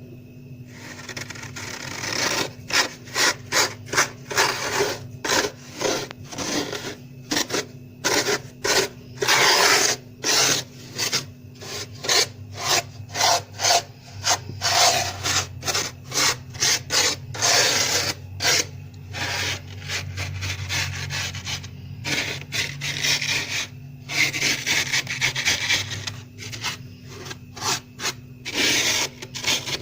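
Plastic card scraping soft, fluffy frost built up over a day inside a freezer, in quick rasping strokes repeated over and over, starting about a second in.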